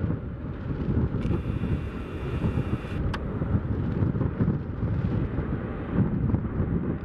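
Strong wind buffeting the microphone in an irregular, gusting low rumble. About a second in there is a brief hiss lasting under two seconds, cut off by a sharp click.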